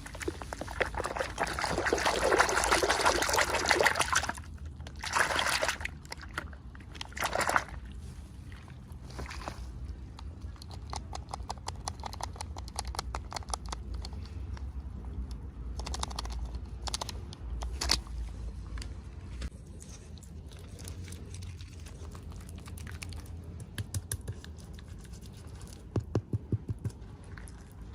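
Packaging being handled and opened: a loud rustle for the first few seconds, then short crinkles and scattered clicks, with a quick run of small clicks near the end.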